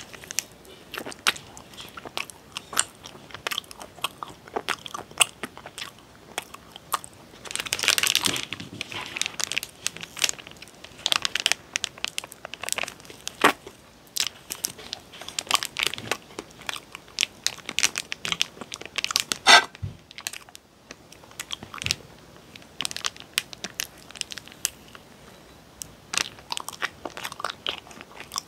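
Close-miked eating sounds: bites into and chewing of an iced hotteok mochi, a steady run of small wet mouth clicks and smacks, with a brief louder rustle about eight seconds in.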